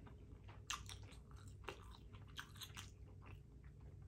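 Faint wet chewing and lip smacks of someone eating soft macaroni and cheese, heard as a scatter of short mouth clicks.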